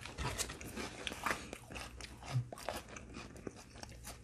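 Close-up chewing of a saltine cracker with a sardine on it: irregular, crisp crunches.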